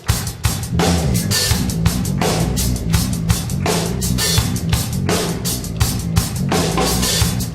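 Jazz-fusion band playing live: a busy drum kit with kick, snare and cymbals drives a fast steady beat over a repeating bass line.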